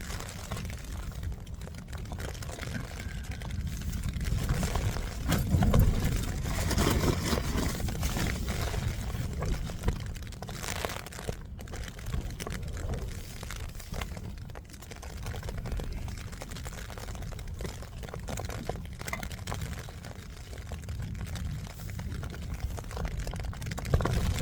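Storm wind gusting against a tent, a steady low rumble that swells about five seconds in and again near the end, with plastic bag rustling and water being poured while a pot noodle is made.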